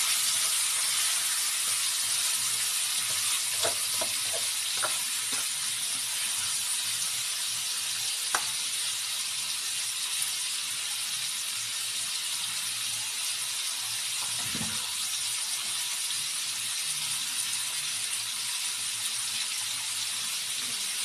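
Whole chicken with lemongrass, ginger, onion and garlic sizzling steadily in a wok, with a few light spatula taps on the pan between about three and eight seconds in.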